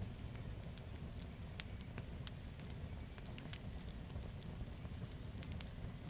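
Campfire burning with a steady low rumble of flames and scattered sharp crackles and pops from the wood.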